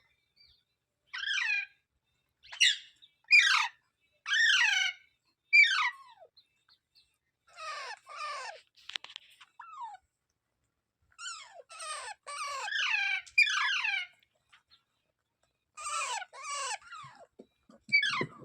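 A parrot giving a series of short screeching calls, each falling in pitch, in ones and twos with short pauses between.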